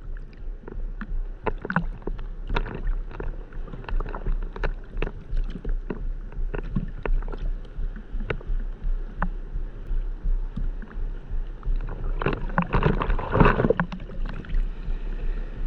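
Seawater splashing and slapping around a GoPro action camera in the surf, with many irregular sharp splashes over a steady low rumble and a louder rush of splashing about twelve seconds in.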